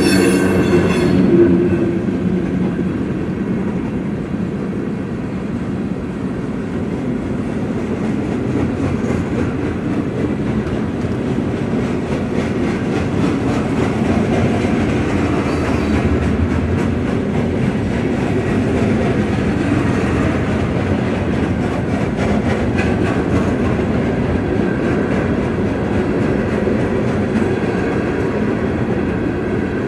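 Freight train cars rolling steadily past at a grade crossing, with continuous rumbling and rapid clatter of wheels on the rails. A high ringing tone fades out about a second and a half in.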